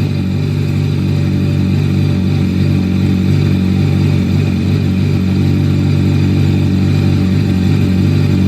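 2010 MV Agusta Brutale's inline-four engine idling steadily.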